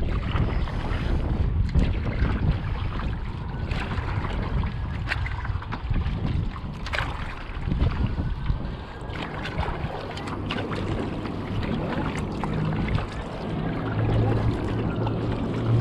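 Wind buffeting the microphone on a kayak out on the water, with water splashing and scattered knocks and clicks. A low steady hum comes in over the last few seconds.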